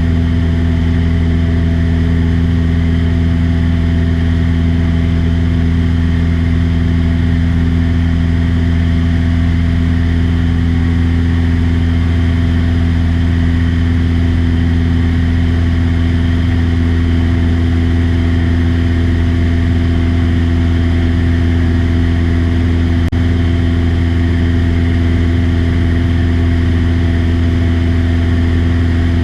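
Light propeller airplane's engine running at a steady, unchanging pitch, a loud low hum.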